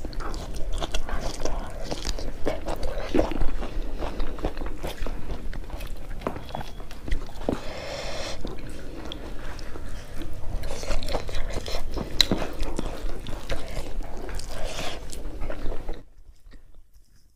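Close-miked biting and chewing of boiled green mustard stalks: wet mouth sounds with many sharp crisp clicks. The sound cuts off suddenly about a second before the end.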